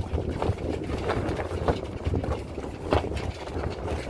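Wind gusting across the microphone with a low rumble, under irregular knocks and flaps about every half second, the sharpest about three seconds in.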